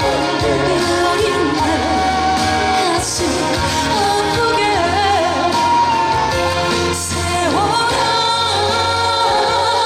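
Trot song performed live: a woman singing a gliding, held melody over loud amplified pop accompaniment.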